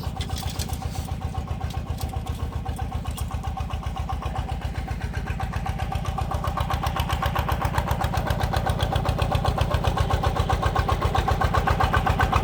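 Power tiller's single-cylinder engine running with an even, rapid chugging beat, growing gradually louder over the second half. A few sharp metallic clicks in the first few seconds.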